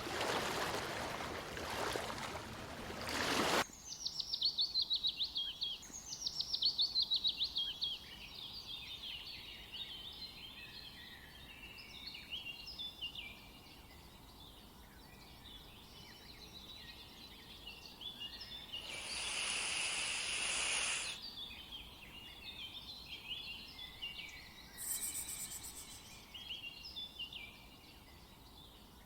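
A rushing noise that cuts off abruptly after about three seconds, then songbirds singing and chirping, opening with fast rattling trills and going on as many overlapping short calls. A brief hiss comes about twenty seconds in.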